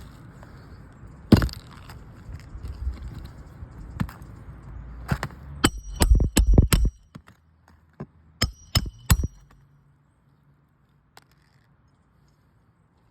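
Hammer striking a steel roof snake to drive roofing nails under a shingle: a few scattered knocks, then a quick run of loud, ringing metallic blows around the middle and three more a couple of seconds later.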